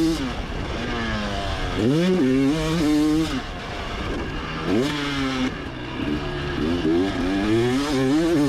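Motocross bike engine revving hard and falling off repeatedly: three times the pitch climbs steeply, steps through quick gear changes, then drops as the throttle is shut.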